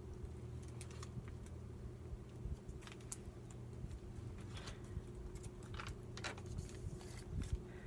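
Small scattered clicks and rustles of paper and craft materials being handled at a worktable, over a steady low hum.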